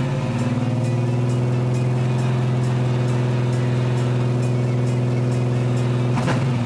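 A 1966 Chevrolet El Camino's engine running at a steady held speed through its custom X-pipe dual exhaust, with music over it. The note changes about six seconds in.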